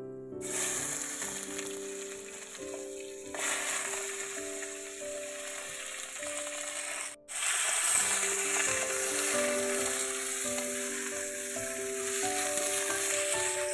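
Cut potato, bitter gourd and drumstick pieces sizzling in hot mustard oil in a karahi, stirred with a metal spatula, the sizzle breaking off briefly about seven seconds in. Soft background music of sustained notes plays underneath.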